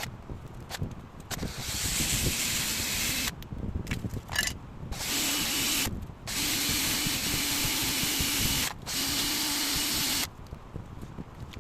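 A power tool or small motor run in four bursts, each a loud hissing whir over a steady hum, starting and stopping abruptly.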